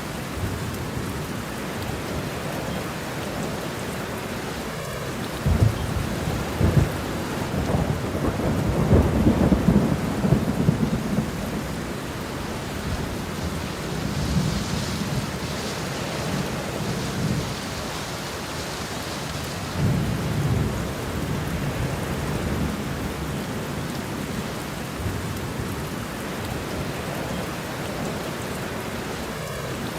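Steady rain falling, with rolling thunder rumbling in several swells; the loudest roll comes about a third of the way through, with smaller rumbles later on.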